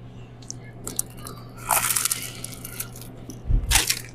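Biting into a toasted Subway sandwich: a crunch about two seconds in and a louder, shorter crunch with a thud near the end, over a steady low hum.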